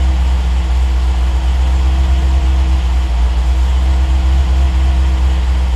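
Triumph TR8's 3.5-litre Rover V8 idling steadily while warming up from a cold start.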